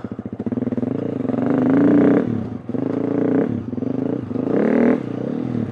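2020 KTM 350 EXC-F's single-cylinder four-stroke engine revving up and easing off about three times as the dirt bike pulls away from a low idle.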